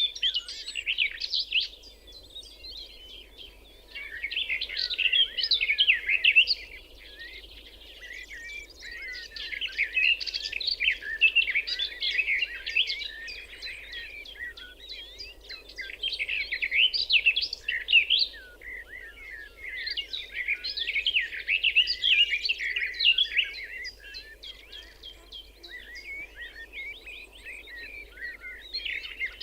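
Songbirds singing: phrases of rapid, high chirps a few seconds long, broken by short pauses, over a steady low background noise.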